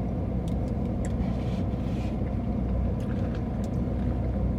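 Steady low rumble of a car, with a few faint short ticks over it.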